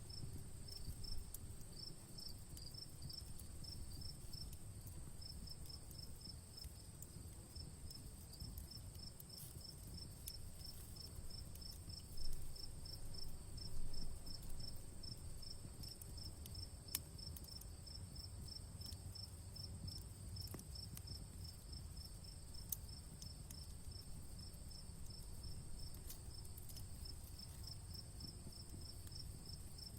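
Crickets chirping in a fast, even pulse over a steady high insect trill. Beneath them a campfire crackles with a low rumble, scattered small pops and a couple of louder cracks around the middle.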